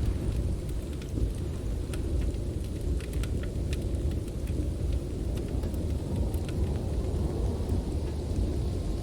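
Storm wind as a steady low rumble. Irregular sharp crackles and pops from a wood fire are scattered over it.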